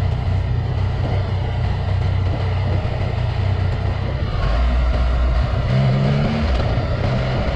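Yamaha XSR900's three-cylinder engine running through an Akrapovic carbon full exhaust while riding, over steady wind and road noise. About four and a half seconds in, the engine note drops to a lower pitch.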